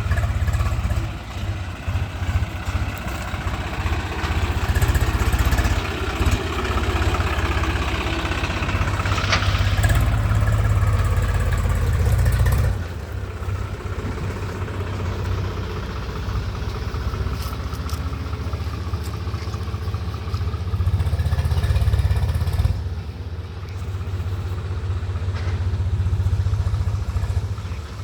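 Swaraj 834 XM tractor's three-cylinder diesel engine running steadily with a deep rumble. The sound drops abruptly about 13 seconds in and shifts again near 23 seconds.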